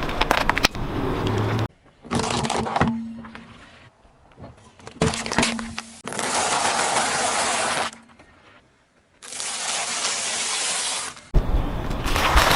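A car's tyres crushing objects: cracking and crunching noise in several short stretches, each starting and stopping abruptly.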